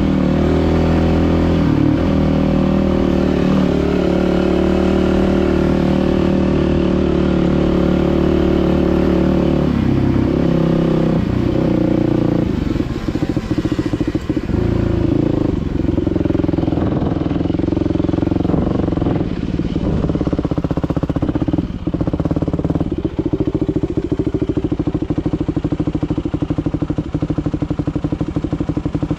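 Dirt bike engine running under way, steady for the first dozen seconds, then uneven, with the throttle coming on and off repeatedly.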